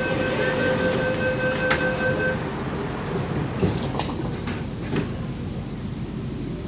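MTR K-Train door-closing warning beeps sounding for about two seconds, then several knocks as the sliding doors shut, over the steady rumble of the train.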